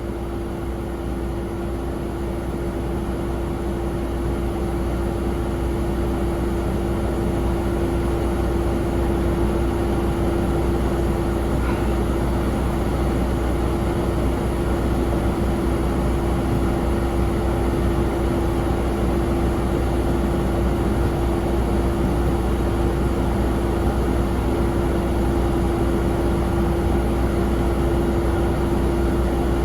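Jet aircraft on the apron running steadily: one constant whining tone over a low rumble, slowly growing louder.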